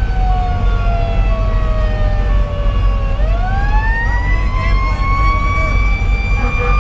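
Federal Q2B mechanical siren winding down over about three seconds, then spinning back up to a steady high wail. Under it runs the steady low rumble of the fire engine's diesel and the road, and a short beep repeats about twice a second.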